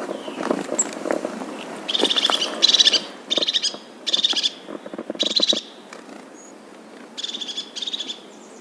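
A bird calling in a series of short, rapid, rattling trills, each about half a second long, about two seconds in and repeating several times. Before the trills there are some low knocks and rustling.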